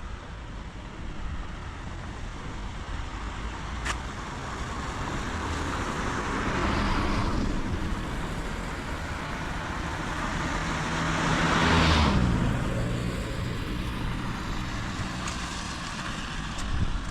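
Two cars passing on a rain-wet road, each a swell of tyre hiss that rises and fades. The second, about twelve seconds in, is louder, and its engine hum drops in pitch as it goes by, over a steady hiss of rain.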